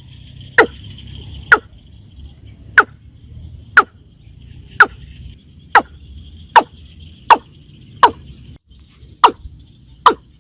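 Watercock calling: a loud, sharp note that slides quickly downward, repeated about once a second, with a steady faint high buzz beneath.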